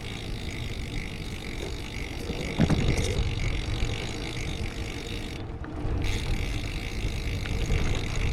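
Wind rushing over the camera microphone and tyre rumble from a bicycle being ridden on the road, growing louder about two and a half seconds in.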